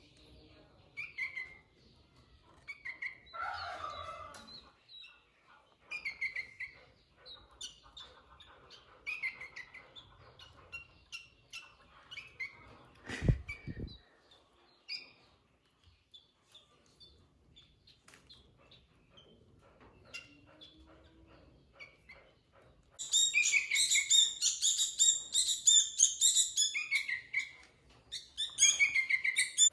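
Sooty-headed bulbul (kutilang) calling in short, separate phrases, then breaking into a fast, loud run of chattering song about 23 seconds in and again near the end. A single sharp knock about halfway through.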